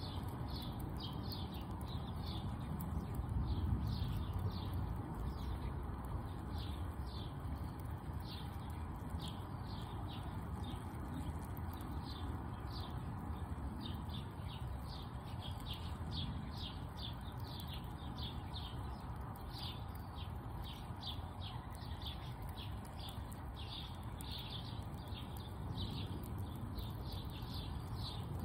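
Small birds chirping: a near-continuous run of short, high chirps, two or three a second with brief pauses, over a low steady background rumble.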